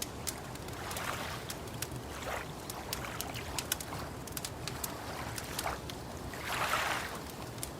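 Wood fire crackling with frequent sharp pops, over gentle water lapping that comes in soft swells, the largest near the end.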